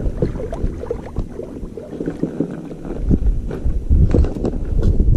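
Small knocks and clatter of handling on a kayak, with wind rumbling on the microphone, growing stronger from about three seconds in.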